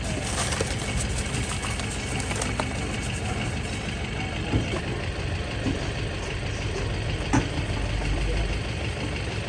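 Steady engine-like running noise, with a few short sharp clicks and knocks.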